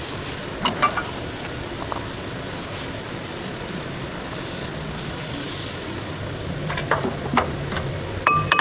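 Steady scraping and rubbing on the brake parts, as a wire brush or file does, with a few sharp clicks. Near the end a metal part is struck and rings.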